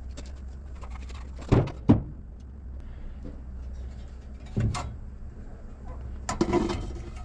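Metal clunks and clatter from handling exhaust manifold parts and gaskets on the engine: two sharp knocks close together about a second and a half in, another near five seconds, and a longer rattle near the end, over a steady low hum.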